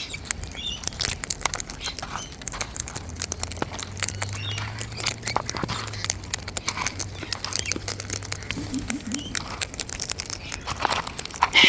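A flock of wild cockatoos and other birds feeding at close range: many small clicks and crackles of beaks and feet among scattered seed, with short chirps and calls. A louder call comes near the end.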